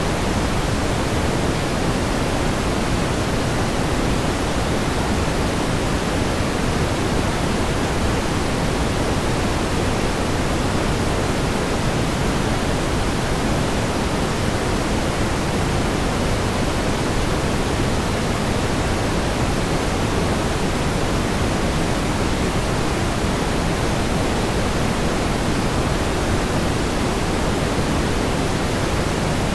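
Steady pink noise: an even, unchanging hiss, fuller in the lows than in the highs.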